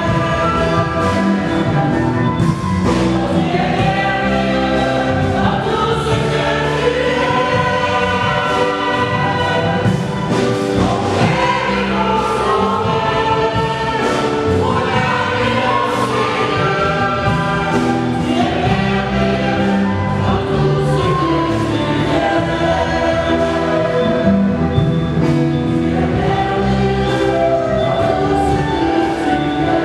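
Church choir singing in several voices over a steady beat.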